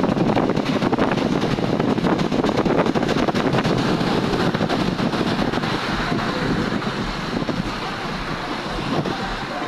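Wind buffeting the microphone over a steady rush of road vehicle noise.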